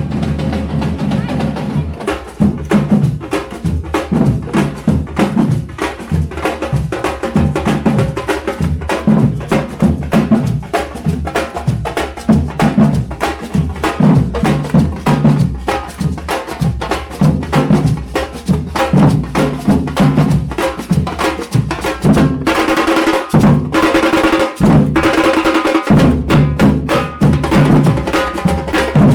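Parade drums beating a fast, steady rhythm. Near the end a few held notes sound over the drumming.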